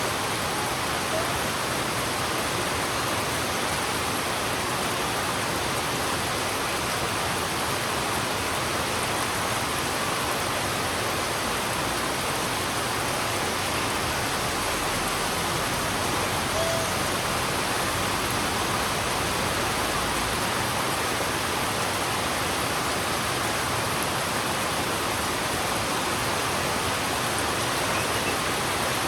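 Heavy rain falling on a road, a dense, steady hiss. A faint low rumble runs under it for several seconds midway.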